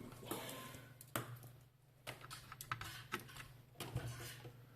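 Scattered light clicks and taps of small hardware being handled on a workbench, over a steady low hum.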